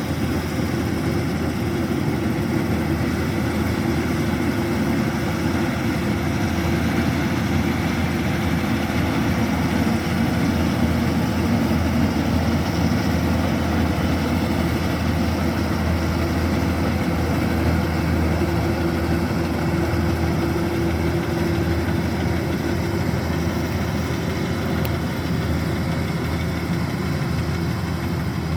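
Kubota DC-105X combine harvester running steadily, a constant diesel engine drone with machinery noise over it as it harvests rice.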